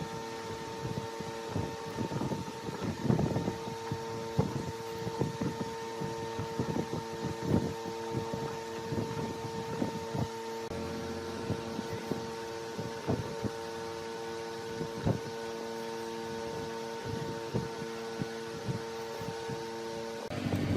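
Large woodworking lathe running with a steady motor hum, with irregular scraping knocks throughout as a turning tool cuts the spinning wood.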